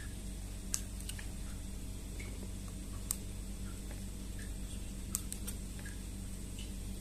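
A few sharp, scattered clicks and ticks, unevenly spaced, over a steady low electrical hum.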